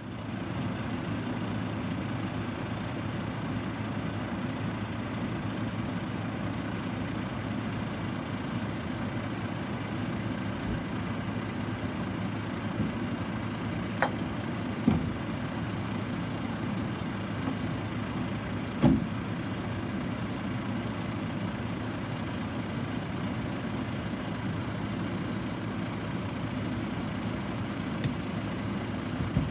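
Garbage truck engine running steadily, with a few short sharp knocks partway through.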